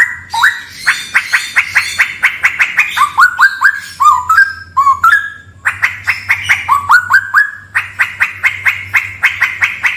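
Straw-headed bulbul (cucak rawa) singing: fast runs of short rising notes, about six a second, broken by a couple of brief pauses. A faint low hum runs underneath.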